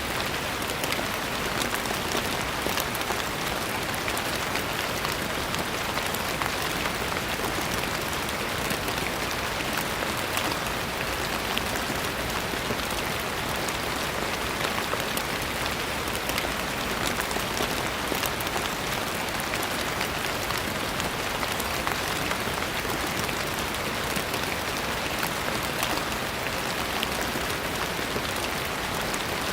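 Steady gentle rain falling: a dense, even hiss of many fine drop ticks that does not change.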